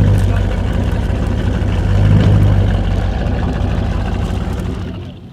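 A pickup truck's engine running under load while towing a truck up a hill, swelling about two seconds in and then fading away near the end.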